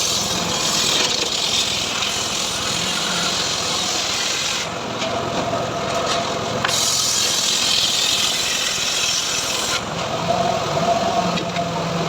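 Engine-driven homemade sawmill cutting teak into boards: the blade hisses through the wood for about four and a half seconds, drops back to the engine's hum for about two seconds, then cuts again for about three seconds before the engine runs on alone.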